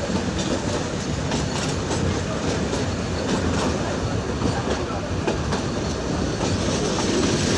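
Train running on the rails with a steady rumble, its wheels clattering over rail joints in repeated short clicks.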